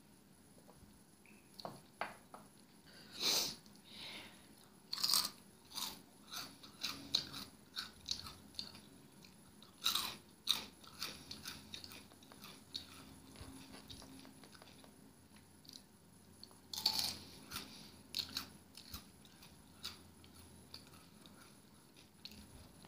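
Close-up crunching and chewing of Flamin' Hot Cheetos: a run of sharp, crisp crunches, the loudest bites coming every few seconds with softer chewing between.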